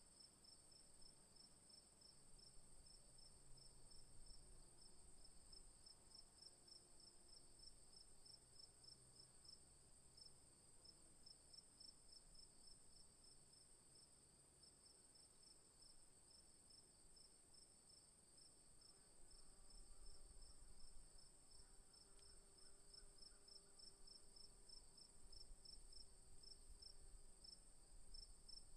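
Faint insect chorus in the bush: a steady high chirring in two pitches, one with a fast, even pulse.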